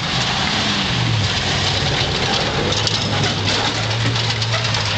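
Vehicle engine running steadily at a low pitch, easing down slightly about a second in.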